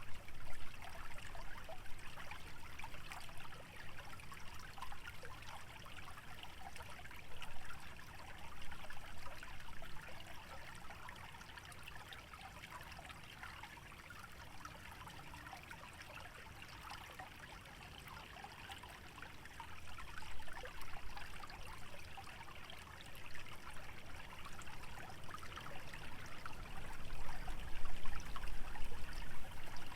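Small stream trickling and babbling steadily over a shallow bed, with a low rumble that grows stronger near the end.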